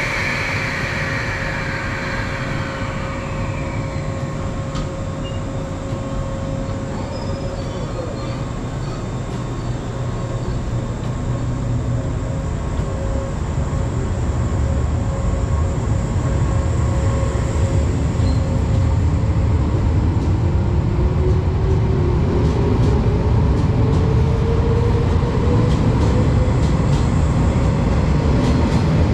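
Running noise heard inside a JR 381-series express electric train as it gathers speed: the rumble of wheels and motors grows steadily louder, and a motor whine rises in pitch through the second half. A high squeal fades out over the first few seconds.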